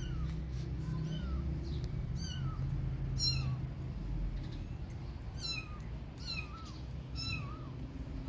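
Kitten meowing repeatedly: short, high-pitched meows about once a second, with a brief pause partway through.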